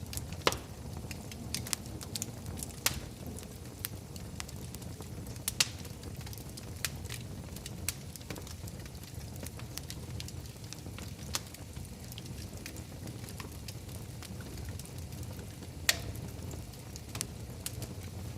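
Wood fire burning in a fireplace: a steady low rumble of the flames with irregular sharp pops and crackles, a few of them loud.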